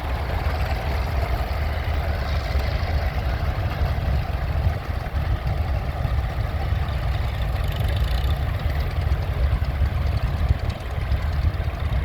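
An engine running steadily with a deep, low rumble.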